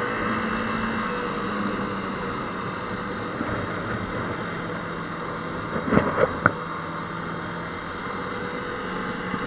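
Motorcycle engine running steadily under way, mixed with wind and road noise, with a few brief sharp knocks about six seconds in.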